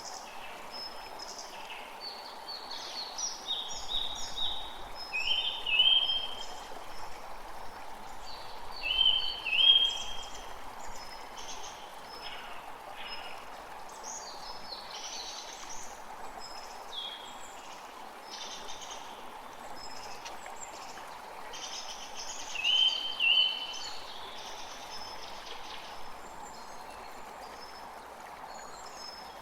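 Creek water running steadily, with birds chirping and singing over it: a louder two-part phrase returns several times, with many short high notes in between.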